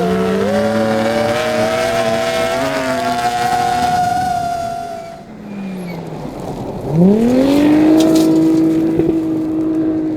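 Rally car engine pulling hard, its pitch climbing slowly. About five seconds in the sound changes abruptly, and near seven seconds an engine rises sharply in revs and then holds them steady.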